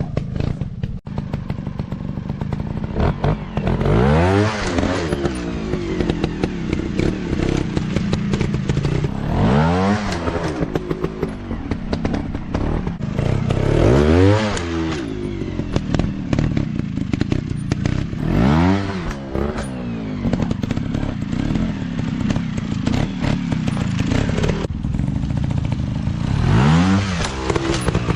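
Small single-cylinder dirt bike engines running, rising sharply in pitch and falling back about five times, every four to five seconds.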